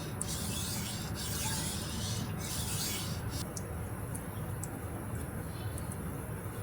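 Knife blade scraped back and forth across a whetstone while sharpening: about three rasping strokes, roughly one a second, stopping about halfway through.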